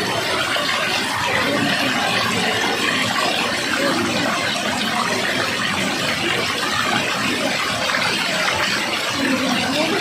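Fast-flowing water rushing steadily, an even, unbroken roar.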